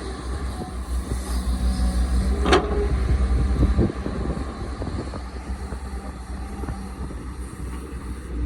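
Caterpillar excavator's diesel engine running with a steady low rumble. About two and a half seconds in comes a single sharp clank that rings briefly, followed by a few lighter knocks.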